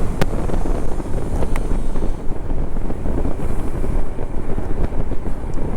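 Wind rushing and buffeting over the microphone while riding a Zero electric motorcycle at speed, with a couple of brief ticks; the electric drive itself is all but silent under the wind.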